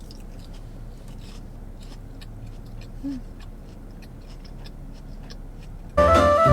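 Faint clicks and small crunches of someone chewing food, with a short closed-mouth hum about three seconds in. Near the end, loud music starts suddenly.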